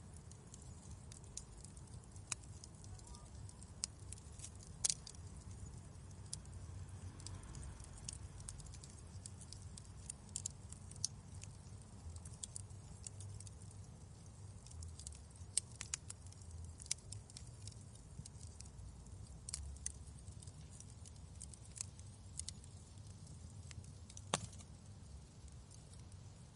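Wood fire burning in a fireplace: a low steady rumble of flames with irregular sharp crackles and pops, the loudest pops about five seconds in and near the end.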